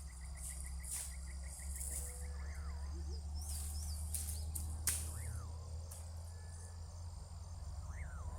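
Forest insects chirring steadily at dusk, with a fast pulsing trill over the first few seconds. A whistled call that slides downward in pitch repeats about every two to three seconds, and a few sharp snaps or clicks stand out, one loudest near the middle.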